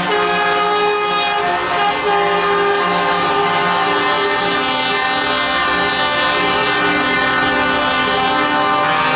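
Truck air horns blaring without pause, several horns of different pitches sounding together, with the mix of pitches shifting every second or two.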